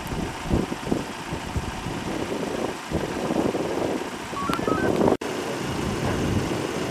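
Vehicle engine idling with an uneven low rumble. About four and a half seconds in, a few short electronic beeps step up in pitch, and just after that the sound cuts out for an instant.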